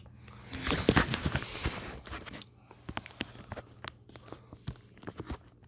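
Rustling handling noise with clicks during the first couple of seconds, then scattered light clicks and taps over a steady low hum.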